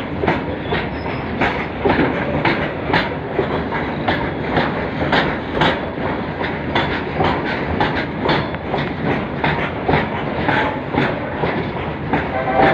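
Train wheels clacking over rail joints at about two clicks a second, over a steady rolling rumble.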